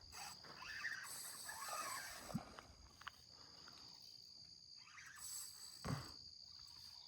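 Faint, steady high buzzing of an insect chorus, with a few faint short voice-like sounds during it.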